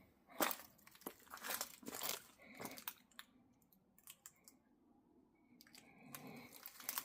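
Irregular crunching and crinkling noises. A few loud strokes come about half a second apart in the first two seconds, it goes quieter through the middle, and the crunching picks up again near the end.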